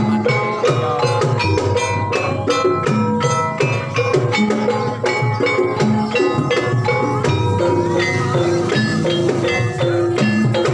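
Javanese gamelan-style ensemble music for a Banyumas hobby-horse dance: struck keyed percussion playing a busy, steady pattern of ringing notes over hand drums.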